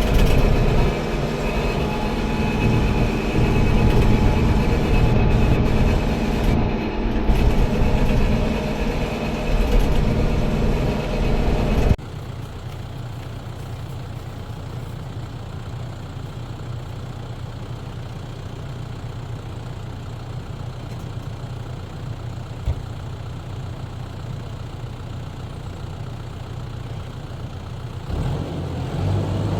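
Tractor engine running, loud and rough for about twelve seconds, then cutting abruptly to a quieter, steady low hum. It picks up again near the end.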